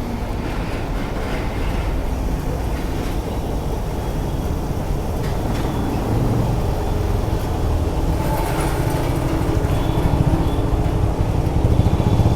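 Motorcycle engine running with steady road and wind noise; a steady engine note comes up about eight seconds in.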